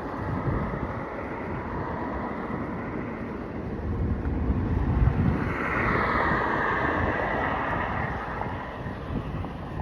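Wind buffeting the microphone in a steady low rumble, swelling about halfway through and easing off again.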